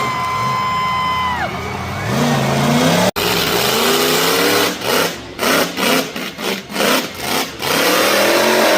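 Monster truck engine revving: a rise in pitch, a string of quick throttle blips, then a longer rev climbing again. A steady high tone with overtones sounds over it for the first second and a half.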